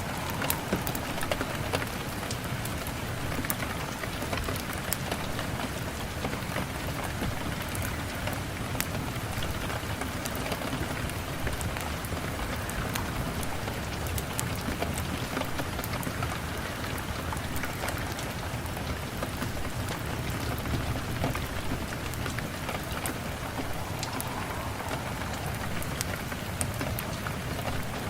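Steady rain falling, an even hiss, with frequent small sharp crackles scattered through it from a wood fire burning in the fireplace.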